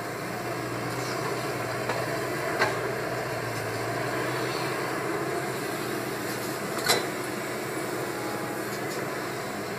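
Caterpillar 320 excavator running steadily with a constant low hum, with two sharp knocks about two and a half and seven seconds in.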